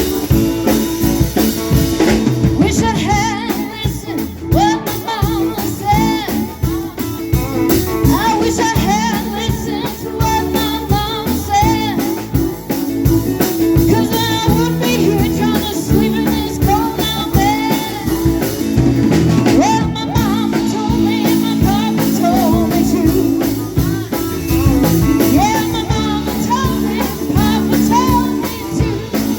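A rock band playing a song with a singer: sung vocals over guitar and drums, steady and loud throughout.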